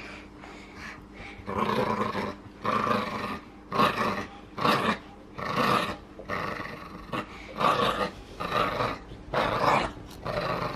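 Jack Russell terrier growling in a string of short growls, about one a second, starting a second and a half in.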